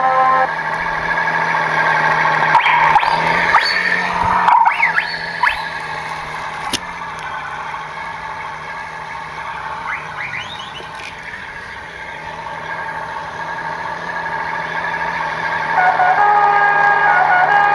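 Sound module of a radio-controlled Scania V8 truck model playing a steady engine sound through its small speaker, with a few brief rising and falling whines in the first few seconds and a sharp click a little later. Music-like tones that step in pitch sound at the very start and again near the end.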